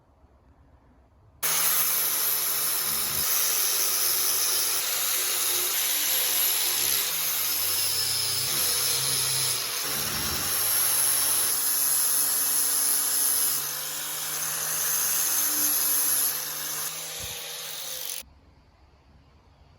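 A power tool running under load for about seventeen seconds, starting abruptly a second and a half in and cutting off abruptly near the end, with a steady high whine over a dense grinding noise.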